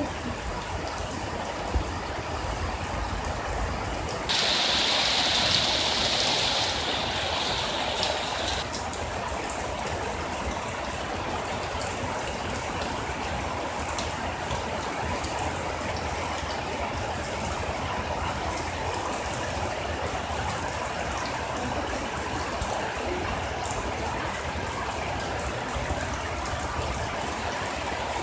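Heavy rain falling steadily on a pond and broad tree leaves, a constant hiss scattered with the ticks of single drops. About four seconds in, a louder, higher hiss comes in suddenly and lasts about four seconds.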